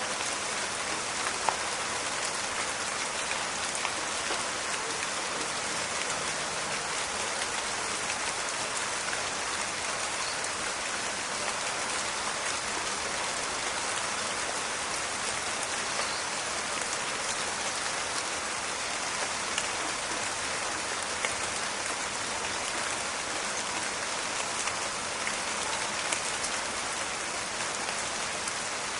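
Steady rain falling in a forest, a dense even patter with scattered louder drop clicks, one sharper drop about one and a half seconds in.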